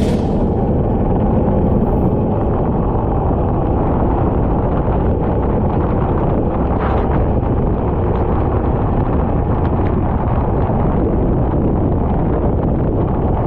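Onboard kart audio: the kart's engine running on track, largely buried under steady, loud wind buffeting on the microphone.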